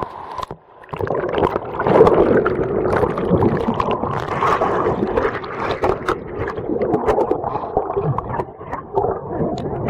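River water gurgling and splashing close to the microphone, a loud, churning, irregular sound. It starts after a brief dip about a second in.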